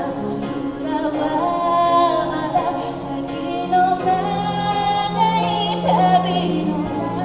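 A woman singing a slow song live, holding long wavering notes over sustained low accompaniment notes.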